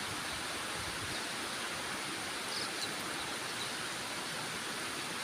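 Heavy tropical rain falling in a steady, even hiss.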